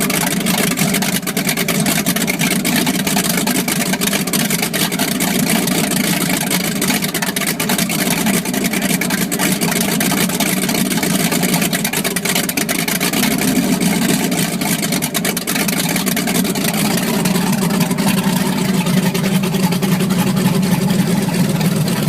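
A boat's port inboard engine running steadily just after start-up, a continuous low drone that grows slightly stronger in the last few seconds.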